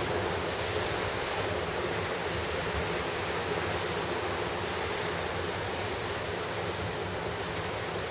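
Pacific surf breaking and washing on a rocky shore, heard as a steady, continuous rush of noise with no single crash standing out.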